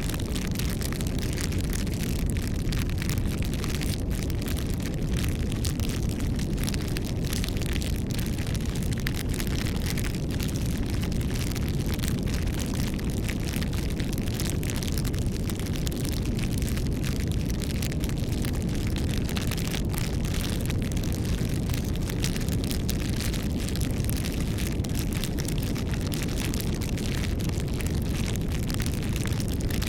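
Campfire burning: a steady low rush with many small crackles and pops all through.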